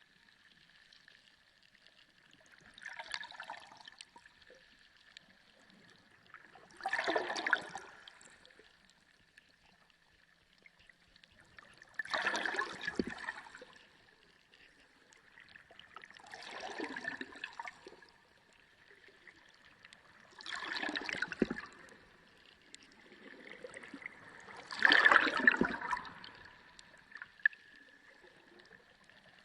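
Underwater sea sound: rushing, bubbling water swells up and fades six times, about every four seconds, over a faint steady high tone.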